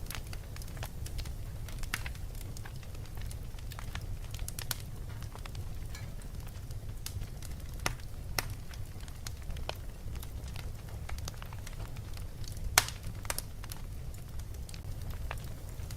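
Fireplace crackling, with irregular sharp pops throughout and one louder pop near the end, over a steady low rumble.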